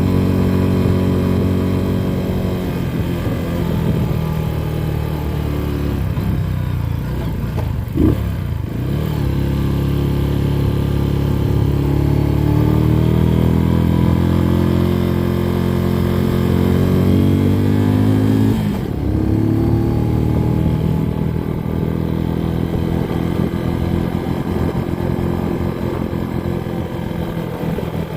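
Motorcycle engine running while riding, its pitch changing with the throttle. There are two short breaks, about eight and nineteen seconds in, after which the pitch climbs again.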